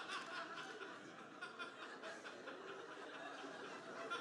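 Audience laughing at a stand-up joke, the laughter tapering off.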